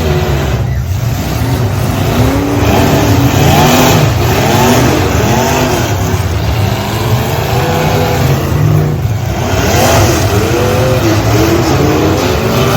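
Several demolition derby truck engines revving hard, their pitches rising and falling again and again over one another, over a constant low engine rumble.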